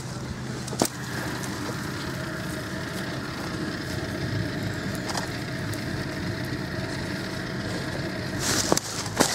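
A car engine running steadily. There is a sharp click about a second in and some rustling near the end.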